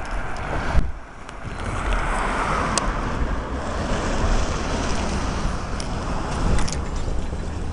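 Wind buffeting the microphone with the steady noise of road traffic passing a grade crossing, one vehicle swelling past about two seconds in.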